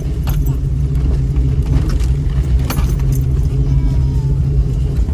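A 2000 Jeep Cherokee's engine running low and steady as it crawls down a rough trail, heard from inside the cab. A handful of sharp clicks and rattles are scattered through it.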